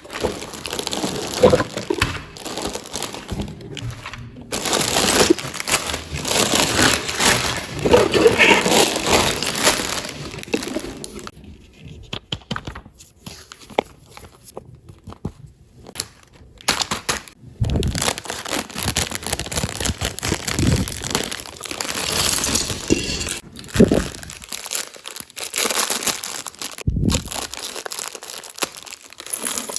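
Plastic packaging crinkling and tearing, mixed with small clicks and rattles of LEGO pieces being handled, in uneven spells with a quieter gap near the middle.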